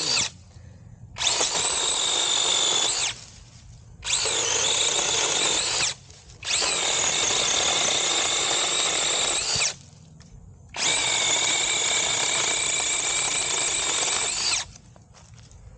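SeeSii battery-powered mini chainsaw's electric motor and chain running in repeated bursts of about two to four seconds with short stops between, a steady high whine each time.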